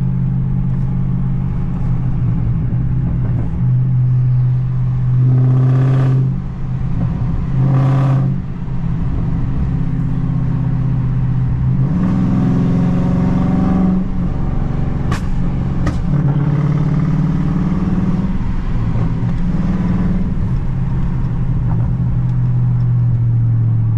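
Tuned Dodge Charger Scat Pack's 6.4-litre HEMI V8 running under load, heard from inside the car. A steady low drone changes pitch as it accelerates, with two brief dips in level about six and eight seconds in.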